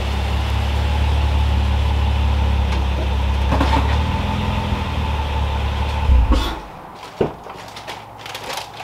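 Honda Crosstour's V6 idling steadily with a deep low hum, then switched off about six seconds in. A few scattered clicks and knocks follow.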